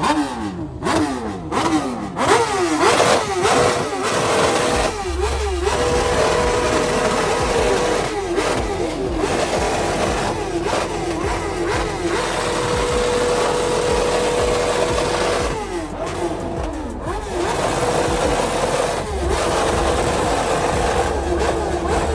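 A car engine revving hard: quick rises and falls in pitch for the first few seconds, then held at high revs with a steady drone that dips and comes back a few times.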